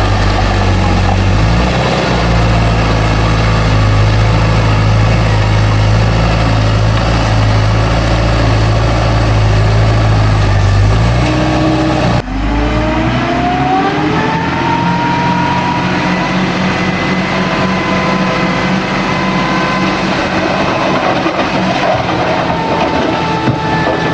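Heavy diesel engine of earthmoving machinery running steadily at a low pitch. About halfway through, the sound breaks off abruptly and an engine is heard rising in pitch as it revs up, then holding a higher, steady note.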